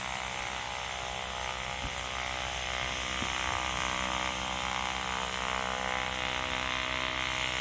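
Light aircraft's piston engine running steadily at a low level, a hum of many even tones, with a couple of faint ticks.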